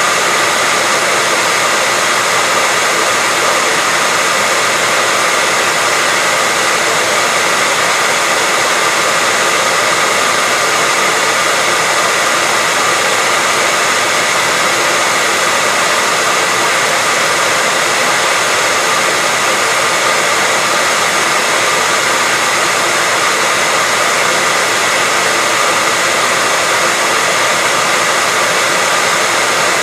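Hair dryer blowing steadily: an even, unchanging rushing noise with a faint steady high whine in it.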